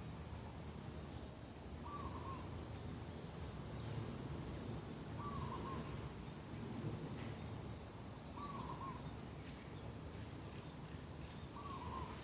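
A dove cooing the same short phrase four times, about every three seconds, with fainter high chirps of other small birds and a steady low background rumble.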